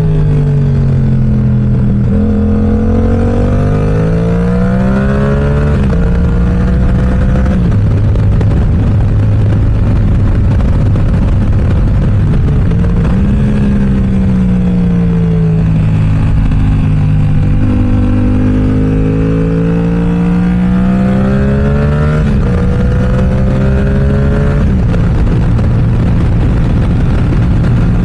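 Yamaha R7's parallel-twin engine through an M4 aftermarket exhaust under hard riding: it revs up through the gears with quick upshifts, the pitch dropping at each shift, settles to a steady cruise, eases off, then pulls up through the gears again. A constant rush of wind runs underneath.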